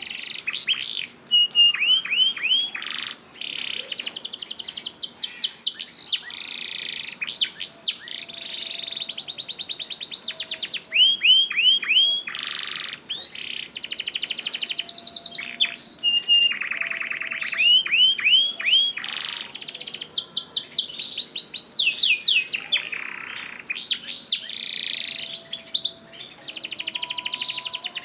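Domestic canary singing a long, continuous song of fast trills, rapidly repeated notes held for a second or two at a time before it switches to a new trill, some sweeping down in pitch.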